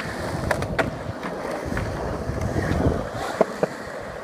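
Skateboard wheels rolling over pavement, a steady rumble with several short sharp clicks.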